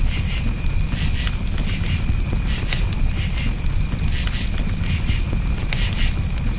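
Crickets chirping in rapid pulsed trills over a campfire's steady low rumble, with sharp crackles and pops from the burning wood scattered through it.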